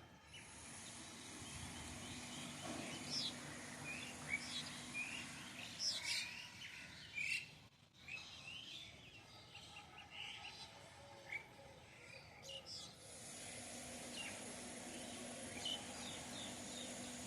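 Garden birds chirping in many short, scattered calls over a steady background hiss, with a brief dropout about halfway through.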